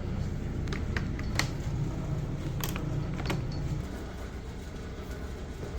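A low, steady engine rumble that drops off about four seconds in, with several short, sharp clicks over it.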